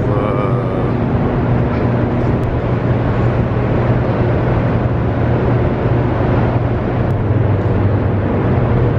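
A loud, steady low hum with an even rushing noise over it, unchanging throughout.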